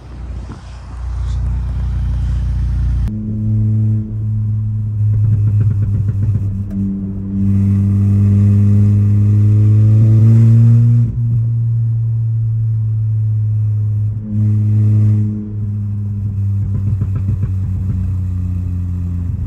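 Volkswagen MK7 GTI's turbocharged 2.0-litre four-cylinder engine and exhaust pulling away and accelerating through the gears of its six-speed manual. The engine note climbs steadily for several seconds and then drops abruptly at an upshift, with briefer breaks at other gear changes.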